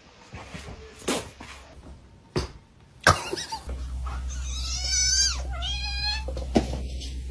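A cat meowing: two drawn-out meows that bend in pitch, after a few sharp knocks.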